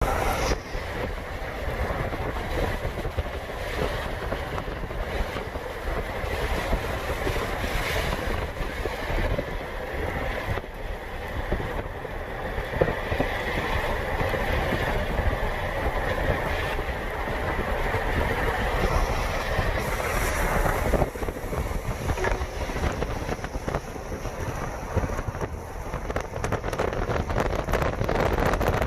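Steady road and tyre noise inside the cabin of a moving Ford F-150 pickup.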